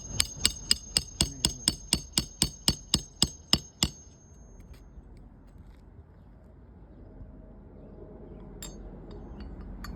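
Hammer driving a roofing nail into an asphalt shingle: about seventeen quick, even strikes, roughly four a second, each with a metallic ring, stopping about four seconds in.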